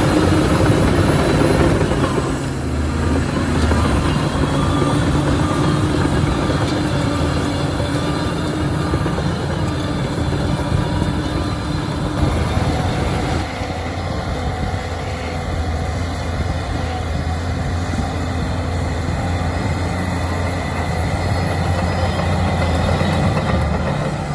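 Shantui crawler bulldozer's diesel engine running steadily under work, with a dense mechanical clatter over it; the sound eases off a little about halfway through.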